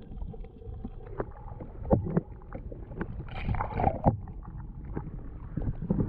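A kayak being paddled close up: water splashing and sloshing from the paddle strokes, with scattered knocks against the hull. There is a brighter splash about three and a half seconds in.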